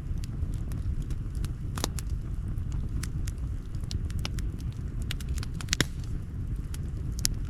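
Outdoor campfire crackling: irregular sharp pops and snaps of burning wood over a steady low rumble, with a louder pop about two seconds in and another near six seconds.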